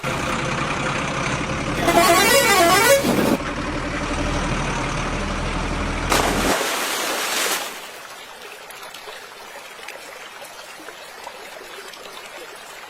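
Truck engine running while its horn sounds loudly for about a second and a half, the horn's pitch warbling up and down. A second loud blast follows around six seconds in. After that there is only a steady rush of flowing water.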